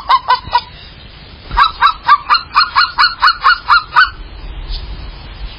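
A bird honking in quick runs of calls, about five a second: a short run at the start, then, after a pause of about a second, a longer run of about a dozen calls that stops near the end.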